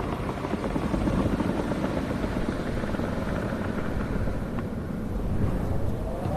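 Strong wind blowing in a steady low rumble, with a whistling howl that rises and falls in pitch starting near the end.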